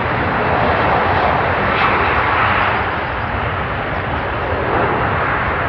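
Jet engine noise from a Boeing 757 airliner: a steady rush of sound.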